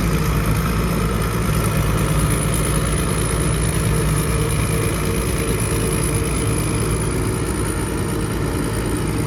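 Rice combine harvester's engine running steadily, with a thin high whine held over it.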